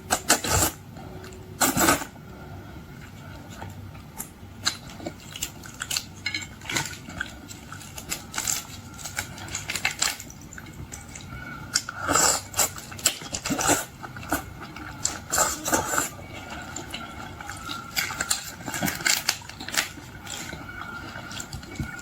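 Close-miked eating of boiled shrimp and seafood: irregular sharp clicks and crackles of shells and dishes being handled.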